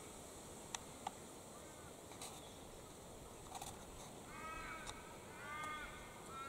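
A bird calling faintly: a few short chirps, then three arched calls about a second apart, the last one drawn out longer. Two small ticks come about a second in.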